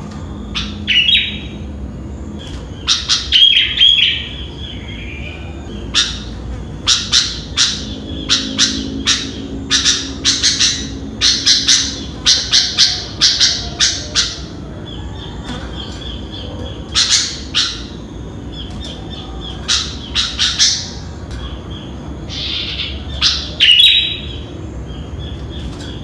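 Sooty-headed bulbul (kutilang) calling over and over: clusters of short, loud chirping notes, with busy runs of calls near the middle and near the end, over a steady low background hum.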